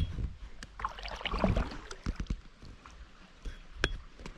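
Kayak paddling: paddle blades dipping and splashing in the river with water dripping, and a few sharp knocks scattered through.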